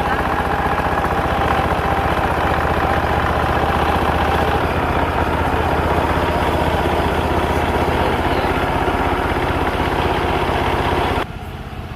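An engine idling steadily with a fast, even pulse. It drops away sharply about eleven seconds in.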